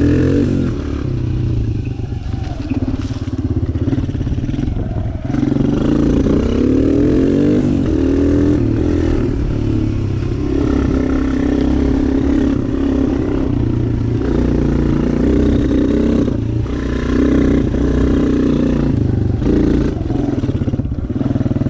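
Suzuki DR-Z125 dirt bike with a 150 big-bore kit, its single-cylinder four-stroke engine being ridden hard, revving up and dropping back over and over.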